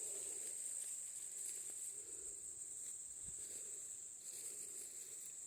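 Insects droning in a steady high-pitched buzz.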